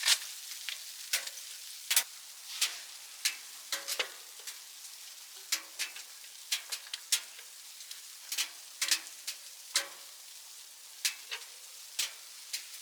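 Wood fire burning in a small tent stove: sparse, irregular sharp crackles and pops, about one or two a second, over a faint hiss.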